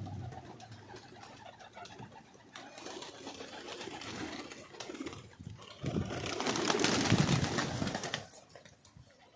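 Domestic pigeons cooing. A louder rustling rush of noise runs from about six to eight seconds in.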